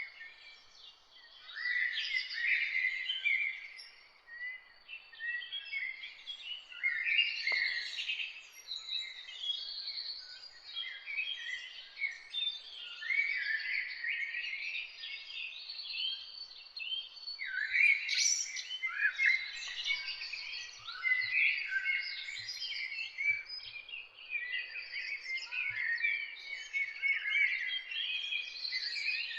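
Several songbirds singing and chirping at once, a dense chorus of quick overlapping phrases and glides with no single bird standing out for long.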